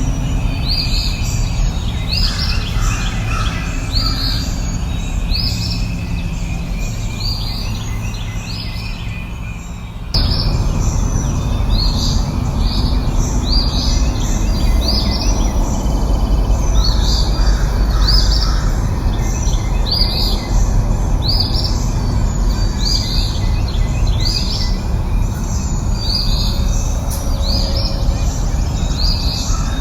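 Birdsong: a bird repeating a short, high, sweeping call about once a second, over a steady low background noise that suddenly gets louder about ten seconds in.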